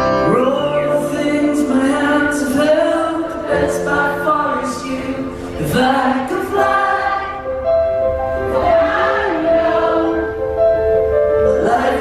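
Live rock band performance with sung vocals; several voices seem to sing together over the steady instrumental accompaniment.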